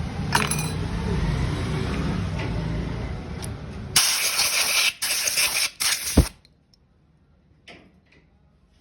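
A motor running with a steady low rumble, then loud hissing in several short bursts for about two seconds, cutting off to near quiet.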